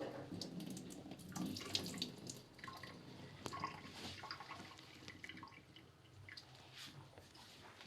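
Faint water trickling and splashing, with scattered small drips and knocks.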